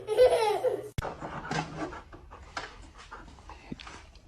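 A person laughing for about a second, then a sharp click. After the click a dog pants faintly with irregular breaths.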